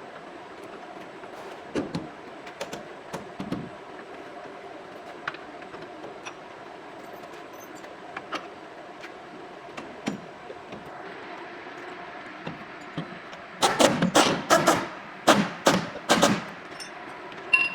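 Workshop tool sounds during truck assembly: scattered light metallic clinks and knocks over a steady background hum, then, near the end, several loud bursts of rapid metallic rattling, like a power tool or hammer working on steel parts.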